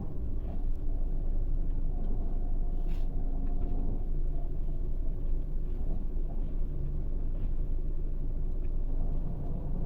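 Diesel engine of a Scania K400 6×2 double-decker coach running with a steady low rumble, with a faint click about three seconds in.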